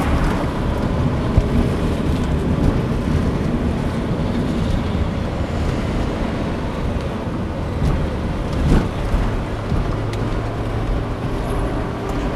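A motorcoach driving on the highway, heard from inside: a steady rumble of engine and road noise, with a brief thump about nine seconds in.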